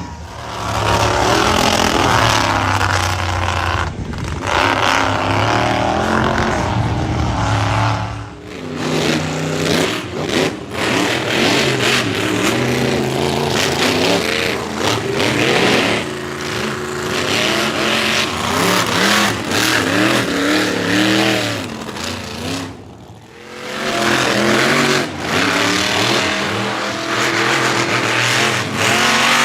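Monster truck engines revving hard, the pitch rising and falling again and again as the trucks are driven. The sound changes character about eight seconds in.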